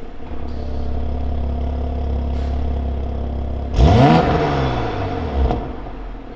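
Toyota Supra with an aftermarket racing exhaust idling steadily, then blipped once about four seconds in: the engine revs up sharply and falls back to idle.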